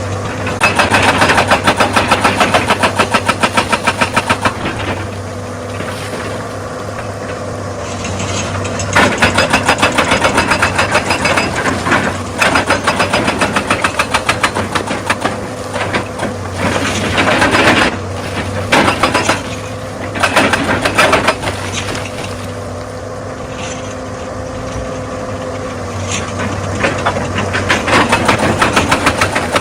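Excavator's diesel engine running steadily under load, with several bursts of rapid, rhythmic hammering a few seconds long, typical of a hydraulic rock breaker working stone. A few single sharp knocks fall between the bursts.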